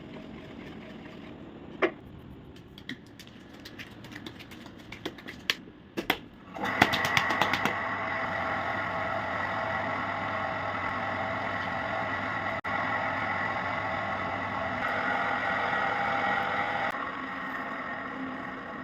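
A few knocks and clicks, then, about six and a half seconds in, a potter's wheel motor starts and runs steadily with a humming whine. It eases off slightly near the end.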